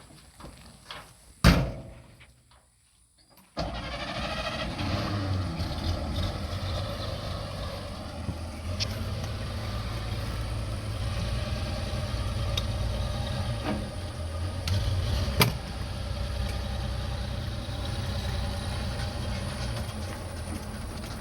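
A single loud slam, like the truck's door shutting, then about two seconds later the 1953 Chevrolet pickup's engine catches and runs steadily.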